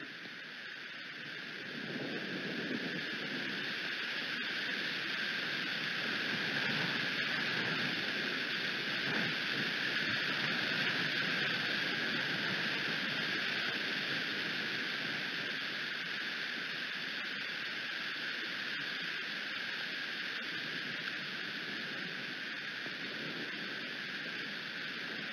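Steady rain and wind noise on an outdoor nest-camera microphone, a continuous hiss that swells louder about two seconds in and then holds.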